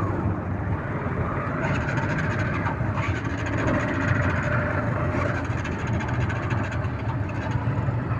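Motorcycle running steadily at road speed, its engine hum mixed with steady road and wind noise.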